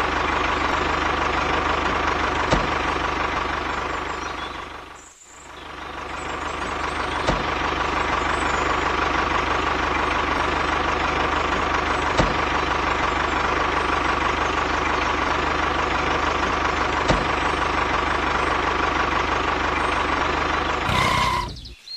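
Steady engine-like drone with a high whine, dipping briefly about five seconds in and carrying a faint click roughly every five seconds; it cuts off just before the end.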